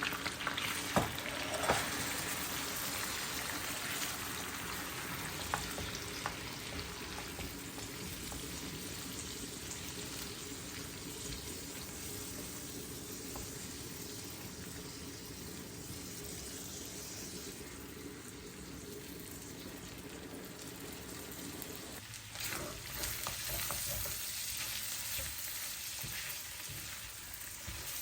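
Food frying in a pan with a steady sizzle, and a few sharp clicks in the first several seconds. About four-fifths of the way through the sizzle briefly swells, then goes on thinner.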